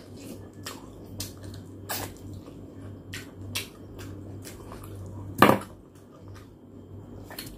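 Wet chewing and lip-smacking of a person eating by hand: a string of short clicks and smacks, with one louder smack about five and a half seconds in.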